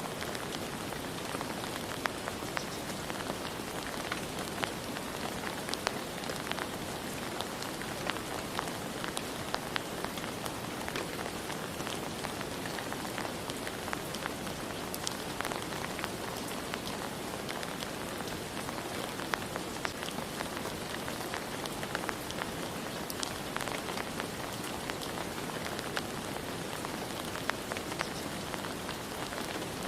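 Steady rain falling on surfaces, an even hiss with many distinct drops pattering throughout.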